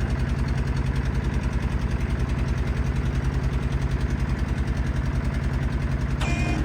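River passenger boat's engine running steadily with a fast, even throb.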